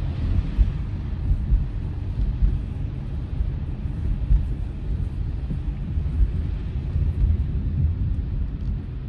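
Steady low road rumble of a car being driven, heard inside the cabin.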